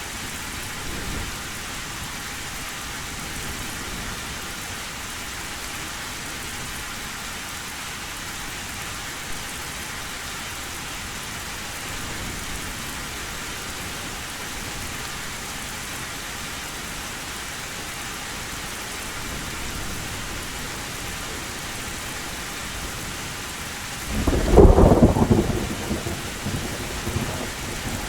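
Heavy rain falling steadily on a tin roof. Near the end comes a loud thunderclap that rumbles on for a few seconds.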